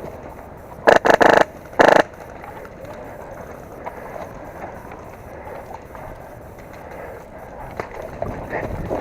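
Airsoft gun firing two short bursts of rapid shots about a second and two seconds in, followed by quieter rustling of movement.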